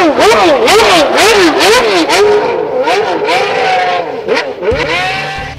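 Car engine revved up and down in quick blips, about three a second, then held at a high steady pitch for about a second before dropping and climbing once more near the end.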